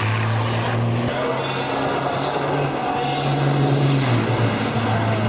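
Race truck diesel engines running, the engine note stepping up and then down in pitch a couple of times. The sound character changes abruptly about a second in.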